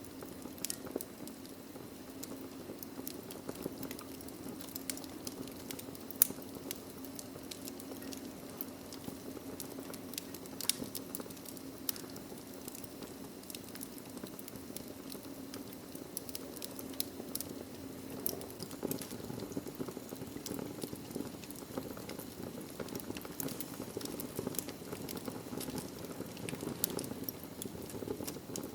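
Wood fire of burning logs crackling: a steady low rush of flame with many quick sharp pops and snaps, a louder pop about six seconds in.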